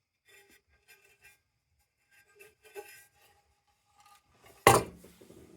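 Faint clicks and scrapes of the lantern's plastic and metal parts being handled, then one loud sudden knock about three-quarters of the way through.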